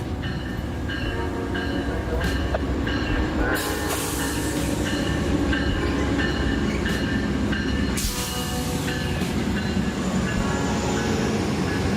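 A train rolling along the tracks, its railroad cars giving a steady low rumble. Over it a short ringing tone repeats about twice a second, and there are two bursts of hiss, one about three and a half seconds in and one about eight seconds in.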